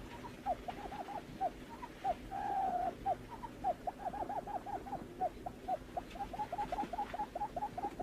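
Barred buttonquail calling: a run of short hooting notes, with a longer purring note about two seconds in. The hoots then come faster, several a second.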